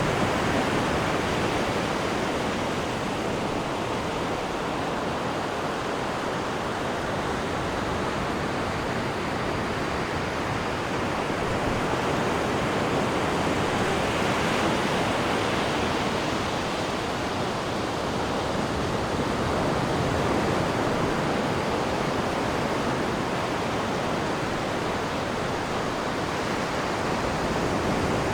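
Sea water churning and rushing in the wake of a cruise ship: a steady rushing noise that swells and eases slowly.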